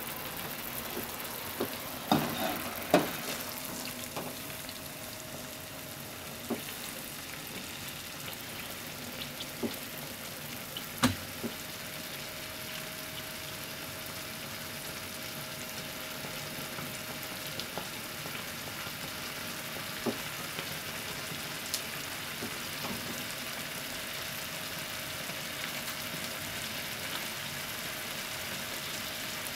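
Kakiage fritters and beaten egg sizzling in a frying pan. A few sharp knocks come two to three seconds in as a glass lid is set on the pan. After that a faint steady tone sounds under the sizzle.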